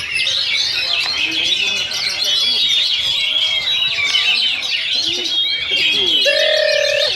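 Oriental magpie-robins singing at once, a dense overlapping run of quick, varied chirps, trills and whistled phrases. A louder steady held note comes near the end.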